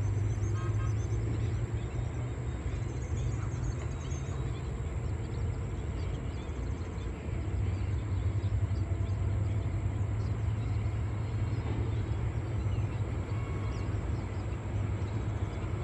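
Steady low outdoor rumble with an even hiss over it, and a few faint high chirps in the first few seconds.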